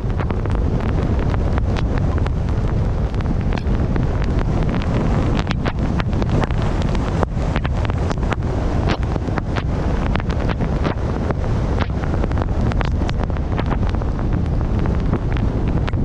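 Blizzard wind buffeting the microphone in a steady low rumble, with many small sharp ticks scattered through it.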